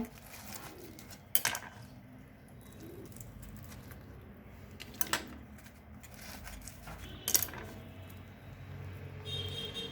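Three sharp clinks a few seconds apart, like a plate or utensil being set down, over a low steady room background.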